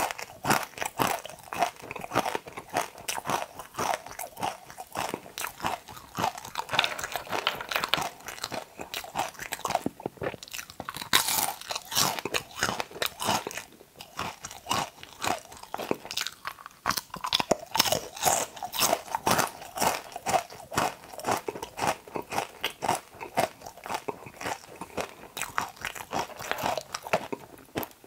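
A person biting into and chewing okra pods close to a lapel microphone: crisp crunches and many quick chewing clicks, with a few short pauses.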